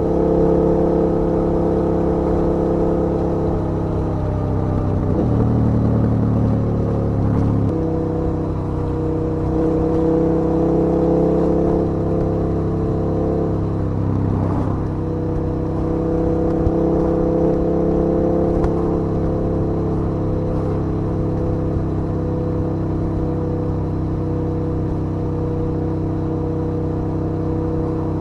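KTM 1290 Super Duke R's V-twin engine running steadily under way. Its note drops and comes back twice, about four seconds in and again near the middle, as throttle or gear changes.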